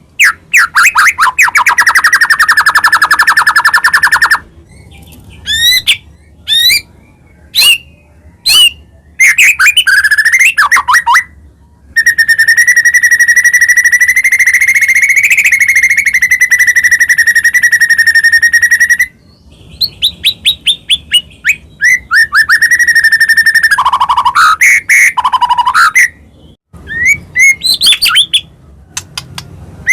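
White-rumped shama (murai batu) singing loudly in full song: fast runs of varied whistled phrases and rattling trills with short pauses between them. About twelve seconds in comes one long held note lasting some seven seconds.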